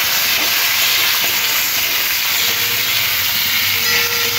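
Potato and drumstick (moringa pod) pieces sizzling in hot oil in a metal kadai, a steady hiss, as a spatula turns them.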